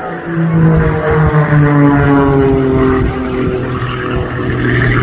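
Pitts S-2S aerobatic biplane's piston engine and propeller on a loud fly-by, its pitch sliding steadily down as it passes.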